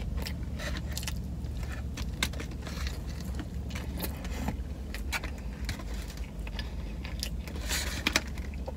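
Close-up mouth sounds of someone chewing a cheesesteak sandwich: many small wet clicks and smacks over a steady low hum in a car's cabin. A paper wrapper rustles briefly near the end.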